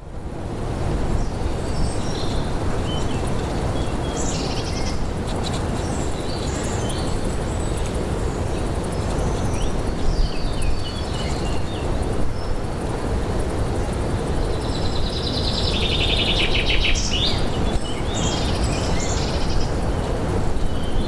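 Birds chirping and twittering over a steady rushing background noise, with a burst of rapid trilling calls about three quarters of the way through.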